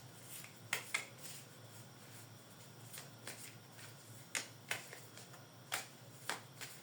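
Tarot cards being handled: a string of sharp, short card snaps and taps, about seven of them at irregular intervals, with two pairs close together.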